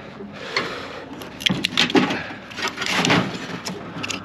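Irregular knocks, clanks and scraping of metal microwave parts being handled and pulled apart.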